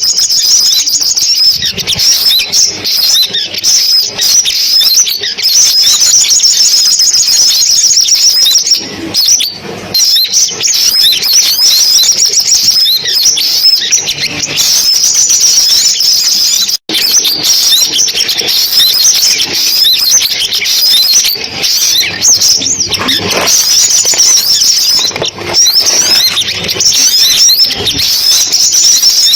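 Recorded sunbird song played as a lure call: rapid, high, thin twitters and chirps that run almost without pause, with a momentary break about 17 seconds in.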